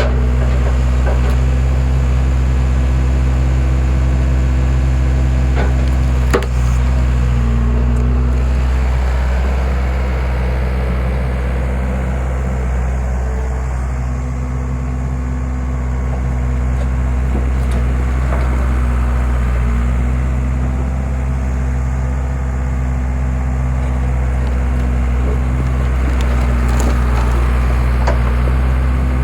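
Skid steer engine running steadily to power a hydraulic log splitter, its note sagging slightly in the middle of the stretch. Occasional sharp cracks and knocks of wood splitting, the clearest about six seconds in.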